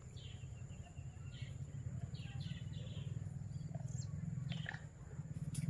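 Birds chirping in several short, falling calls over a steady low rumble, with a thin steady high tone behind and a few soft clicks near the end.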